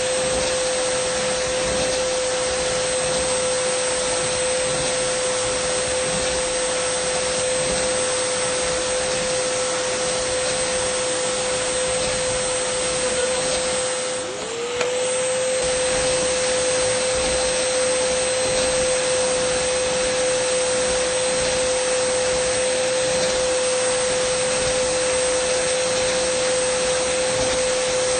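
Dyson vacuum cleaner running steadily: an even rushing airflow with a steady hum and a thin high whine from the motor. About halfway through, the sound dips briefly and its pitch sags, then climbs back.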